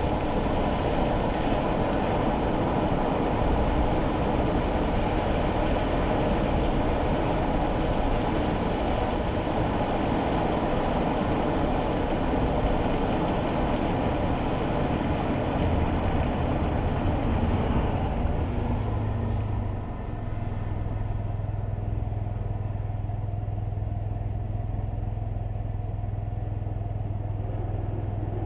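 Inside a kei car driving on a wet road: a steady rush of tyre and road noise, which fades about two-thirds of the way through as the car slows to a stop. A steady low engine hum is left at idle.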